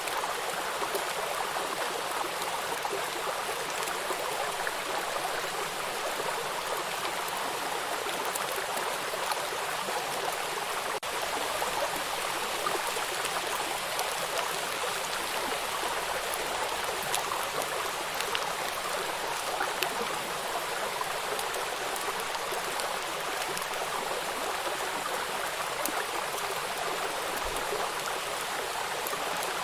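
Rain falling on a flowing river: a steady, even rush of running water with scattered faint ticks of drops.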